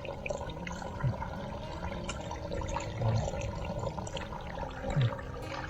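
Running water flowing steadily, with a few short, low sounds about one, three and five seconds in.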